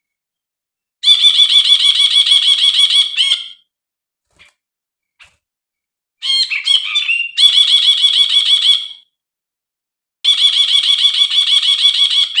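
Brinji bulbul calling: three chattering bursts, each a quick run of repeated notes lasting two to three seconds. The second burst opens with a few varied notes before the run.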